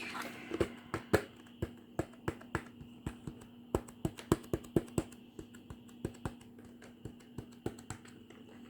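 Computer keyboard keys being tapped one at a time, an irregular run of sharp clicks at about two or three a second, over a faint steady hum.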